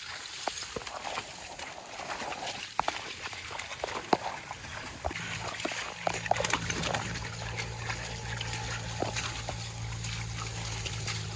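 Sloshing and splashing in shallow marsh water, with many short clicks and knocks. About five seconds in, a steady low hum sets in and holds.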